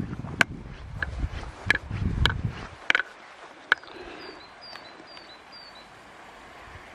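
Low rumbling noise with several sharp clicks or knocks over the first three seconds, then a small bird calling four short, quick, falling high notes.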